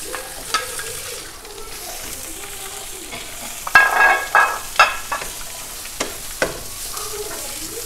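Shallots, garlic and chillies frying in oil in a non-stick pan, sizzling steadily while a wooden spatula stirs them, knocking and scraping against the pan several times, loudest a little under four seconds in.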